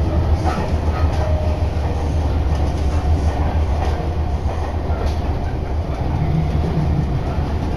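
Sotetsu Line electric commuter train running, heard from inside the passenger car: a steady low rumble of wheels and running gear, with a few faint clicks.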